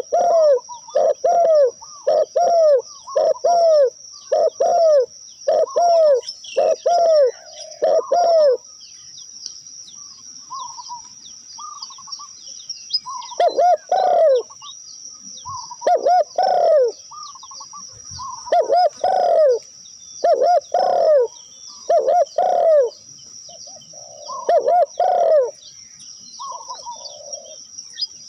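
Dove cooing: a steady run of evenly spaced low coos, about three every two seconds, then after a short pause softer notes and spaced groups of two or three coos. A constant high-pitched insect whine runs underneath.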